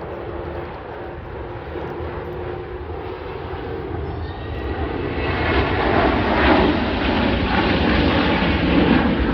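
An aircraft flying past, its engine noise swelling and growing loud about halfway through.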